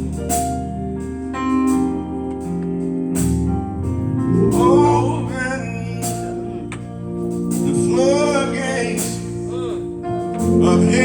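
Gospel church band playing: sustained keyboard chords over bass, with scattered drum hits, and a voice singing in from about four seconds in.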